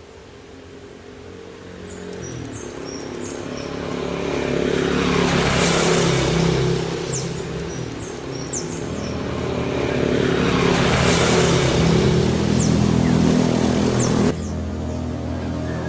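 Motor vehicles passing on a nearby road: a steady engine hum that swells twice as traffic goes by and then drops off suddenly near the end. Small birds give short, high, thin chirps over it.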